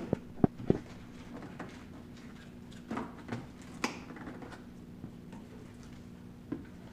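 A few sharp knocks and clicks, three in quick succession at the start and a few more scattered later, over a faint steady hum.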